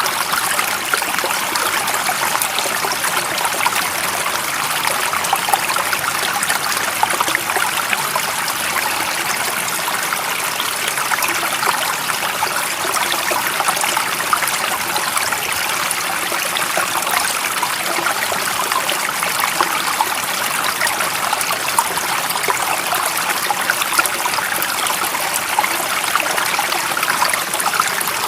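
Running water of a stream, flowing steadily with a constant fine trickling and splashing.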